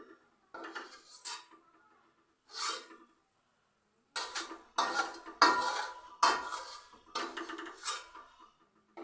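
Metal utensils scraping and clattering against a cooking pan: a few short scrapes, then a louder run of strokes from about four seconds in.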